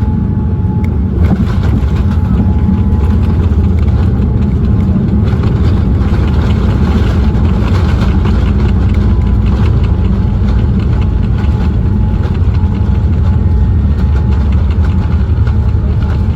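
Steady low rumble inside the cabin of a Boeing 787-9 Dreamliner taxiing after landing, its engines running at low power, with a faint steady hum over it. A brief click about a second in.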